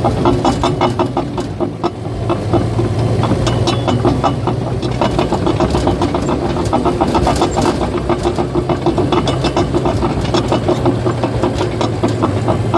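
Caterpillar bulldozer's diesel engine running steadily under a quick, even clatter of its steel tracks, several clanks a second.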